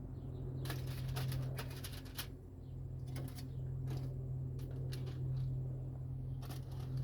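Intermittent clicks and knocks, such as tongs and metal racks being handled, over a steady low hum.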